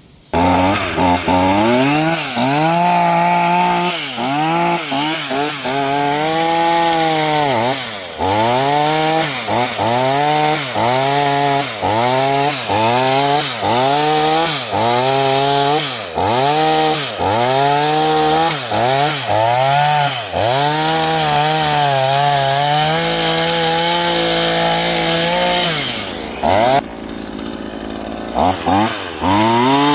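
Craftsman 18-inch two-stroke gas chainsaw running at high revs through a log, its engine pitch repeatedly dipping and climbing back about once a second as the throttle is worked and the chain bites. A little before the end it drops briefly to a lower level, then revs up again.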